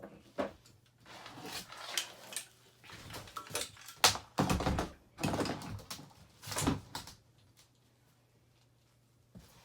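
Clunks, knocks and scraping of metal parts as a Yamaha YZ250F dirt bike engine is worked loose and lifted out of its frame. The sounds come in a run of irregular bangs and scrapes over the first several seconds, then stop.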